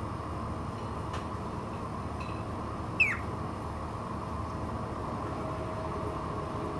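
A bird gives one short, loud call that falls sharply in pitch about three seconds in, with a few faint chirps before it, over a steady background hiss and hum.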